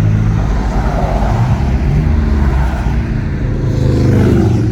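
A car engine running close by, its pitch and loudness climbing as it accelerates near the end.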